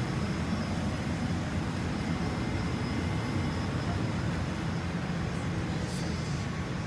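Steady low rumble of a vehicle, even throughout with no distinct events.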